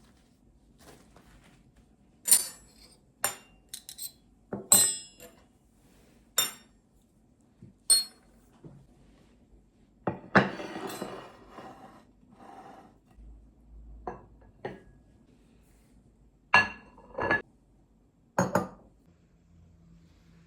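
Dishes, glassware and cutlery being handled and set down: a dozen or so separate sharp clinks and knocks, with about a second of scraping and rustling around ten seconds in.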